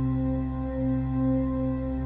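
Ambient relaxation music: layered, steady held tones over a low drone, swelling gently with no beat.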